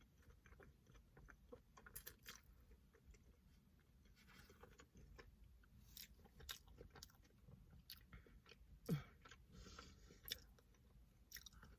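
Faint close-up chewing of fried, breaded jalapeno poppers: soft crunches and wet mouth clicks, scattered and irregular, one a little louder about nine seconds in.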